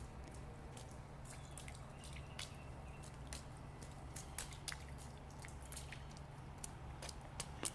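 Faint, irregular water drips and small splashes, sharp ticks coming a few at a time, over a low steady hum.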